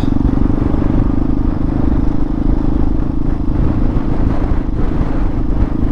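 Hawk 250 dual-sport motorcycle's single-cylinder four-stroke engine running steadily under way, heard from the rider with wind rushing over the microphone.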